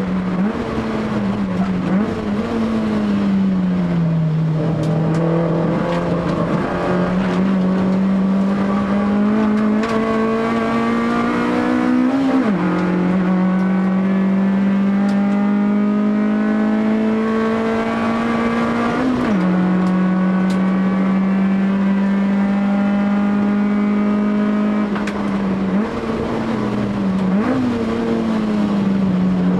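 Honda Civic EF3's ZC 1.6-litre four-cylinder on Solex 44 carburettors, with a titanium exhaust, running hard at high revs on track. The pitch climbs steadily under load and drops sharply at each gear change, about four times.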